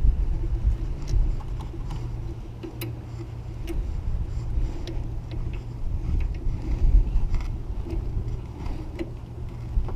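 Small metal clicks and taps at irregular intervals as the pieces of a harmonic balancer puller are worked into the crankshaft pulley, over a steady low hum.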